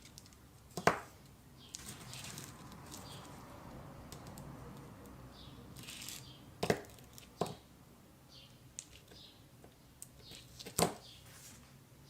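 Workshop handling sounds: four sharp knocks or clicks, one about a second in, two close together past the middle and a loud one near the end, with faint scraping and rustling between them.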